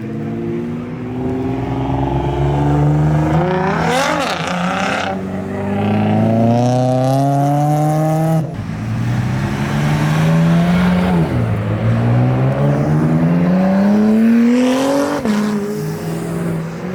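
NSX's V6 engine under hard acceleration, the revs climbing and falling back at each upshift, about four shifts in all.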